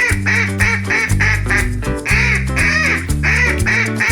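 Duck quacking in a quick series of calls over background music with a steady beat.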